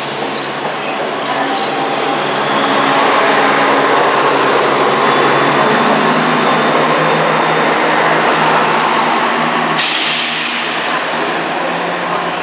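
Diesel-hauled passenger train of Mk3 coaches moving slowly past at the platform: a steady engine drone with rail rumble, growing louder from about two seconds in. A sudden hiss of air cuts in near the ten-second mark.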